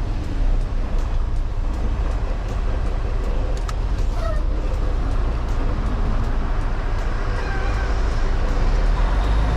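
Day-cab semi truck's diesel engine running steadily as the truck pulls forward slowly, a constant low drone.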